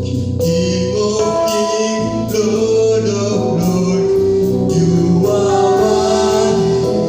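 Gospel worship music: voices singing in harmony, choir-like, over sustained accompaniment, with held notes changing every second or so.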